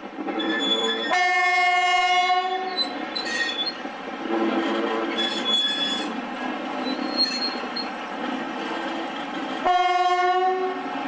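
A locomotive's whistle sounds twice: a long blast about a second in and a shorter one near the end. Between the blasts there is a rushing, hissing noise.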